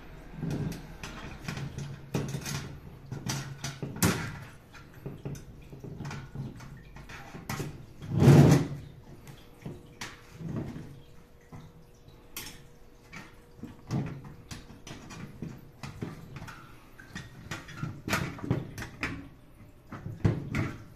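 Stainless-steel parts of a folding fire pit being handled and fitted together: scattered clicks, taps and clanks of metal on metal, with one louder knock about eight seconds in.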